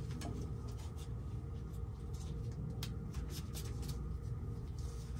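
Scratchy rubbing and light clicks of hand work on threaded steel pipe: the threads are being taped or brushed out. A steady low hum runs underneath.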